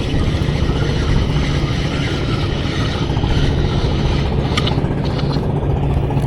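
A boat engine running steadily, an even low hum.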